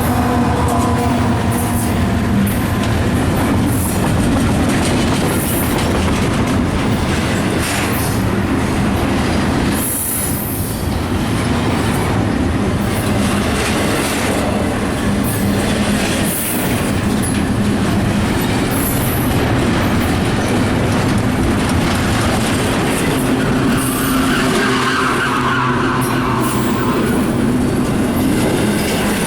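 CSX freight train passing, its steel wheels running over the rails with a loud, steady clatter. A locomotive horn blast fades out in the first second.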